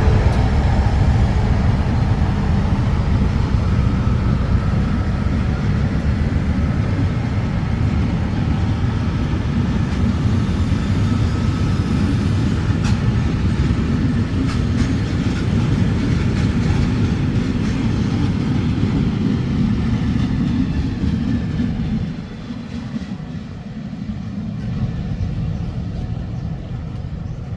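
Train running: a steady, loud low rumble of the engine and wheels on the rails, which turns noticeably quieter about 22 seconds in.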